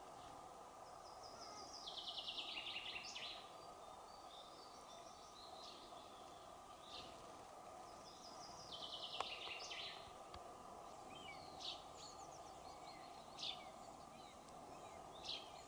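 A songbird singing twice, each song a descending run of quick high notes about two seconds long, followed by a few short chirps, faint over a steady low background hiss.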